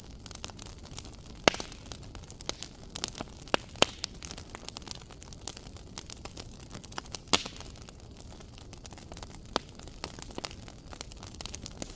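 Wood fire crackling in a fireplace: a steady low hiss with frequent small crackles and sharp pops, the loudest about a second and a half in and again past the middle.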